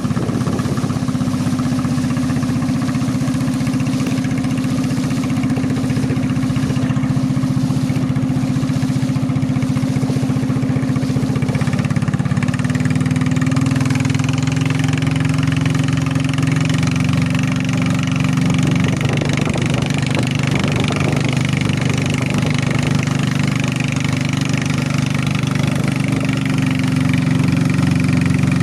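A fishing boat's small engine running steadily, its speed shifting slightly about twelve seconds in and again near nineteen seconds.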